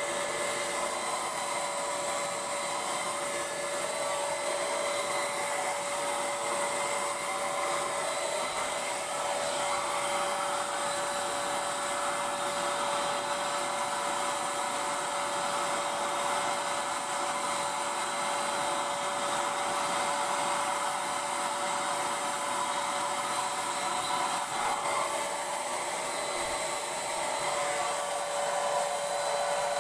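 Handheld electric Paint Zoom paint sprayer running steadily: a motor whine with one strong steady tone over a spray hiss, the hiss brighter through the middle stretch.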